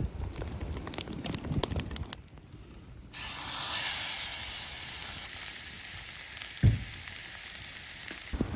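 Steak dropped into a hot pan and sizzling. A few knocks of handling come first; about three seconds in the sizzle starts suddenly and carries on steadily, with one low thump near the end.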